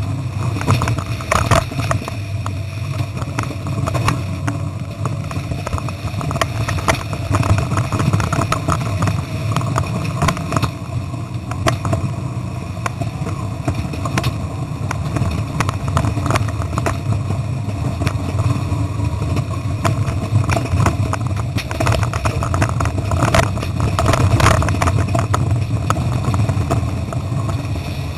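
Rover 3.5-litre V8 of a Bowler Tomcat off-road competition Land Rover running hard under way, heard loud from inside the cab, with constant rattles and knocks as it crosses rough ground. The noise overloads the camera's microphone.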